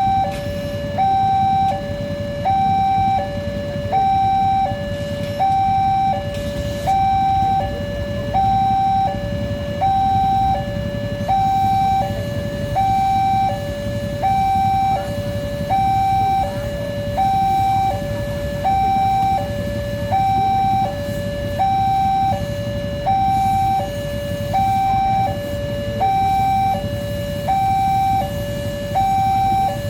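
Electronic railway level-crossing warning alarm sounding a steady two-tone high-low signal, each tone held about a second, with a low rumble underneath.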